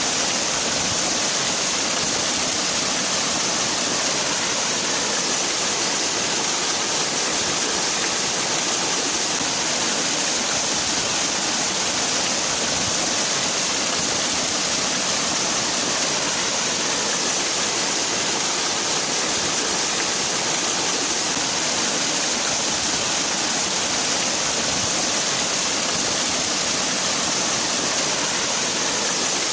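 Waterfall: falling water splashing in a steady, even rush with a hissing top.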